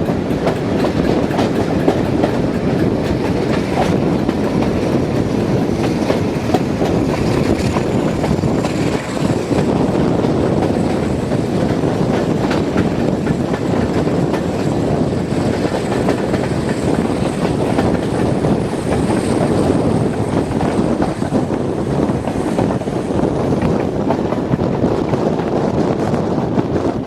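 Train running on the line, a steady loud rumble with the clickety-clack of wheels over rail joints, and a faint high-pitched squeal through the middle stretch.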